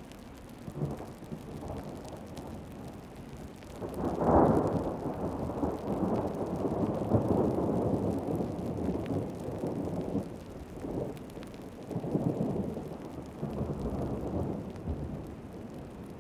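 Thunder rumbling over steady rain. A loud roll starts about four seconds in and lasts several seconds, followed by a few shorter rumbles.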